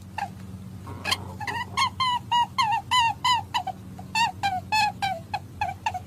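An animal calling in a rapid series of short, high-pitched calls, about two to three a second, each call bending in pitch.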